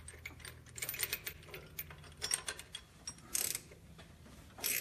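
Ratchet clicking in quick runs as it turns the centre bolt of a harmonic balancer puller, drawing the balancer off the crankshaft of a Ford 302 small-block V8. There are two short rasping bursts near the end.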